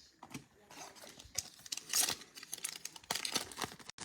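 Crinkling and tearing of a trading-card pack wrapper as the next pack is opened: irregular crackles, faint at first and louder from about a second in.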